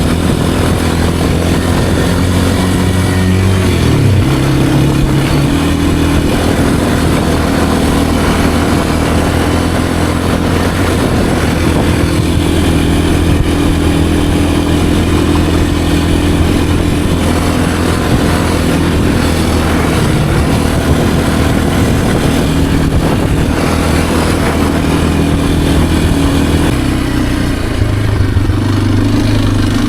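Kawasaki KLX230R's single-cylinder four-stroke engine running while the dirt bike is ridden. The pitch dips and climbs about four seconds in, holds steady, then drops near the end.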